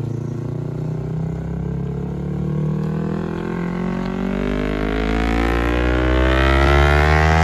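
Motorcycle engine running, its pitch rising slowly and steadily over several seconds and growing louder near the end.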